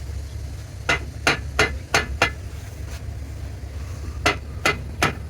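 Hammer striking metal with a ringing clang: five blows in quick succession about a second in, a pause, then three more near the end. A steady low machinery hum runs underneath.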